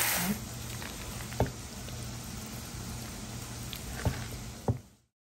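Diced chicken frying in a pan, sizzling loudly at first, then dropping about a third of a second in to a quieter, even hiss with a few sharp taps, before cutting off just before the end.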